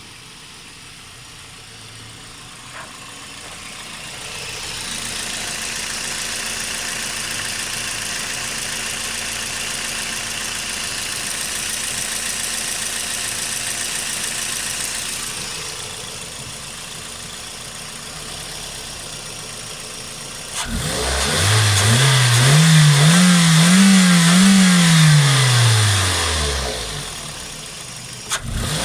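Toyota Funcargo's 1NZ-FE 1.5-litre four-cylinder engine running steadily, a little louder for a stretch, then revved once: the pitch climbs and falls back to idle over about six seconds. A second rev begins at the end.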